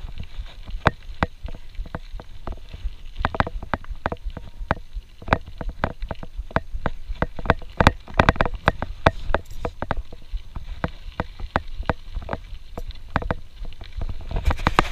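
Camelbak hydration-pack strap and drinking hose knocking against a GoPro camera: rapid, irregular clicks and taps, several a second, over a low rumble.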